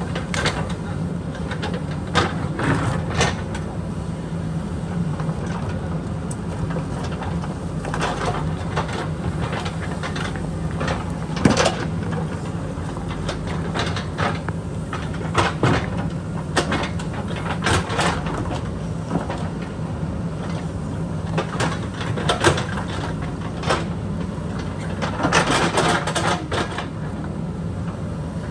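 JCB backhoe loader's diesel engine running steadily under work, with irregular sharp knocks and clanks from the bucket working against rock and boulders, several in quick succession near the end.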